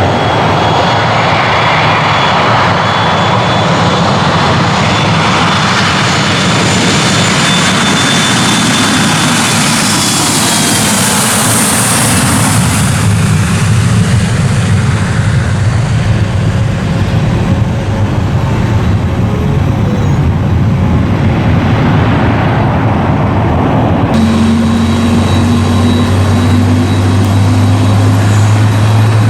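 Airliner engines running loud at an airport, a dense roar with a high-pitched whine that swells and fades around the middle. About 24 seconds in, the sound changes abruptly to a lower steady hum whose pitch slowly rises.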